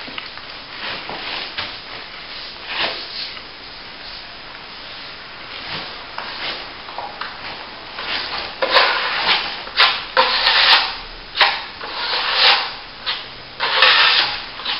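Steel plastering trowel scraping and rubbing over a wet top coat of plaster in repeated strokes. The strokes are faint at first, then louder and about once a second in the second half, with a few light clicks.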